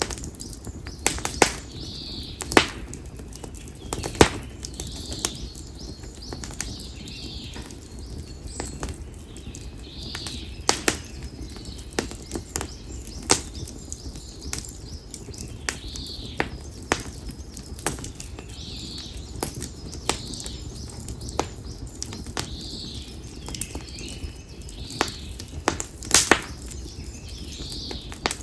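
Konara oak firewood burning in an open fire, crackling with irregular sharp pops over the steady low rush of the flames.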